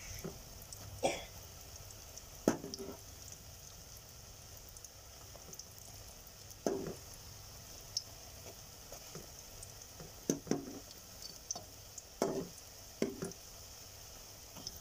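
Jalebis frying in hot oil in a metal kadai, a steady faint sizzle. A metal spatula scrapes and knocks against the pan every second or two as the jalebis are pushed and turned.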